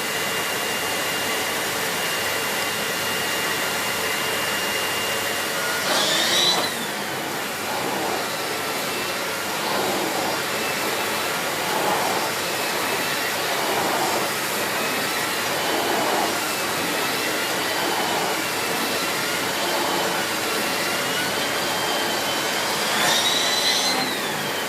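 Miele C2 Compact (S6) cylinder vacuum cleaner with its 2000 W motor running with a steady whine, pushed back and forth with a swish about every two seconds. The whine rises sharply in pitch and gets louder about six seconds in and again near the end.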